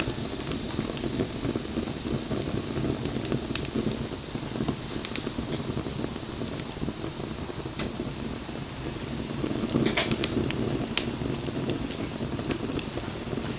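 Wood bonfire burning: a steady low rush of flame with scattered sharp pops and crackles from the burning wood, a few of them close together about ten seconds in.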